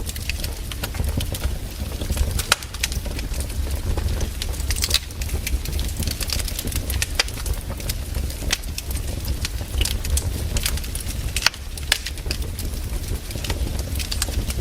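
Wood fire crackling: burning logs give off irregular, sharp pops and snaps over a steady low rumble.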